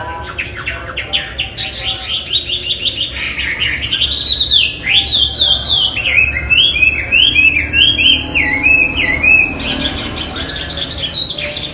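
Chinese hwamei song: a fast run of short repeated notes, then a string of loud whistled phrases, each rising and falling, about two a second, over a steady low hum.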